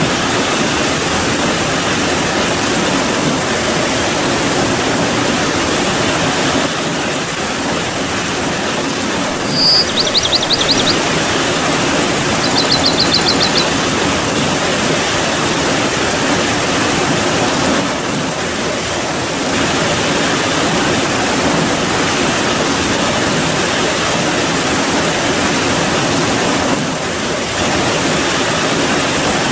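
Steady heavy rain falling. Two short, high-pitched trills cut through it near the middle.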